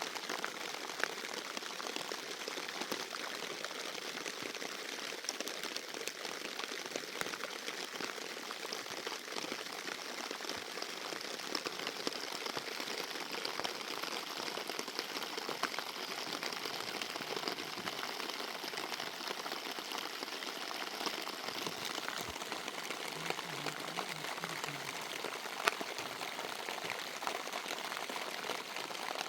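Steady rain: a dense, even hiss of many small drops with scattered sharper drop hits.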